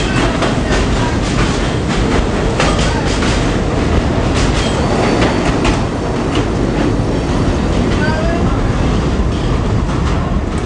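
R40M/R42 subway train in motion, its wheels clicking over rail joints with a steady rumble and a few brief squeals.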